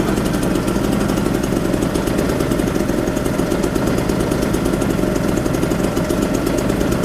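Small two-stroke moped engine idling steadily, with a fast even firing beat.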